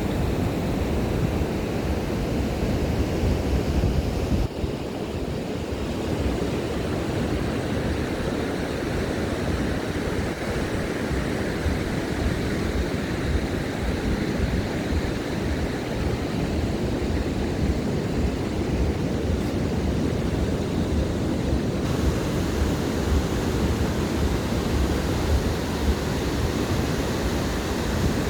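Steady wash of ocean surf on a beach, with a low rumble of wind on the microphone.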